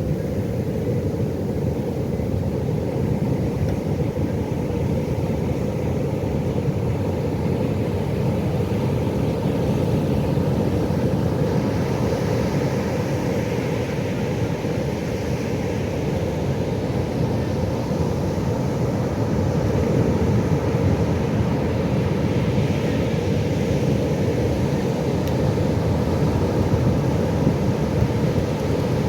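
Pacific Ocean surf: a steady low rush of waves, with a hissing wash that swells up near the middle.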